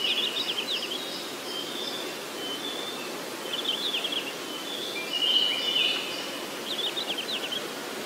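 Forest birdsong: short runs of quick, high chirps repeating every second or so over a steady background hiss.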